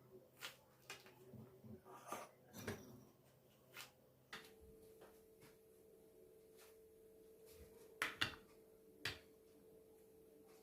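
Faint kitchen handling sounds: scattered light clicks and knocks, with two sharper clicks close together near the end and one more just after. A steady hum sets in about four seconds in.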